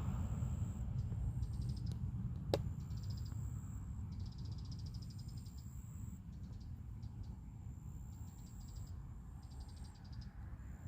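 Insects chirping in short, high, rapidly pulsed trills that repeat in groups, over a steady low rumble, with one sharp click about two and a half seconds in.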